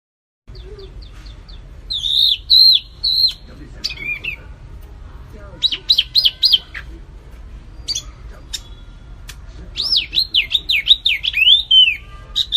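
Songbird singing in a masteran (song-tutoring) recording of wambi mini and kapas tembak song. It starts about half a second in with clear high whistled notes and sharp chirps in short phrases, and near the end a quick run of down-slurred whistles.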